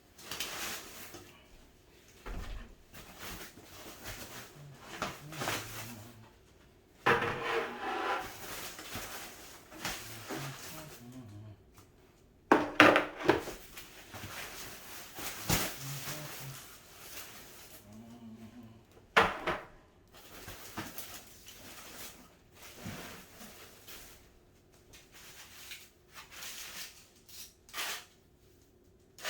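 Irregular knocks, clatters and rustles of cat tower parts and packing material being handled and set down, with louder bursts of rustling or scraping about seven, twelve and nineteen seconds in.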